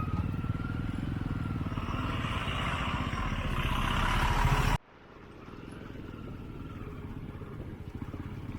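Motorcycle engine running on the move, with a rushing noise that grows louder over the first few seconds. About five seconds in it cuts off suddenly to a quieter, steady engine rumble.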